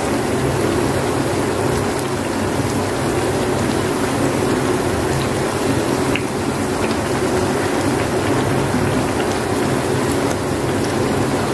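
Triangles of white bread frying in hot oil: a steady sizzle with a few faint crackles.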